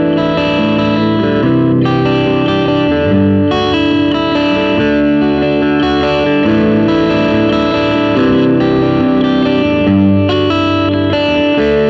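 Gibson 1968 Les Paul Custom electric guitar played with some distortion through a Marshall amp. Sustained chords ring out and change about every two seconds.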